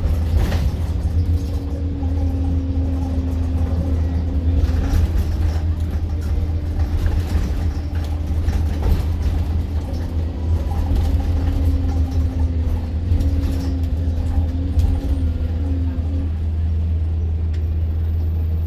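Interior of a moving Stagecoach London bus: steady low engine and road rumble, with a held whine that wavers slightly in pitch and fades out near the end, and light rattles from the cabin.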